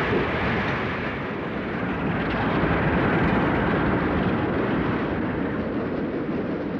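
Freight train led by several diesel locomotives passing at speed: a steady, loud rumble of engines and wheels on the rails, with boxcars rolling by near the end.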